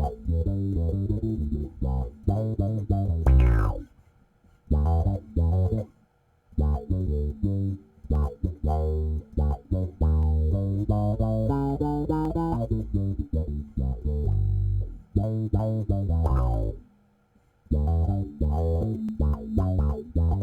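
Electric bass played through an AmpMaster Woodcraft Qtron/Mutron-style envelope filter pedal set to low-pass mode, low range: funky plucked phrases whose tone sweeps open with each note's attack, with a few short pauses between phrases.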